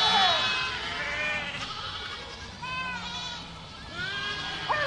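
Several goats bleating, with short calls overlapping one another and coming every second or so, the loudest right at the start and near the end.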